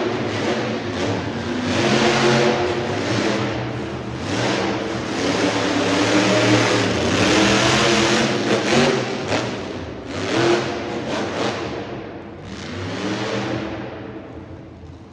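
Monster truck engine revving hard again and again, its pitch climbing and falling with each burst of throttle; the sound fades off near the end.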